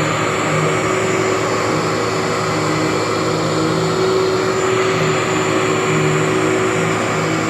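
Workhorse vacuum cleaner running steadily while vacuuming a rug, a constant motor drone with a fixed high tone over an even rush of airflow.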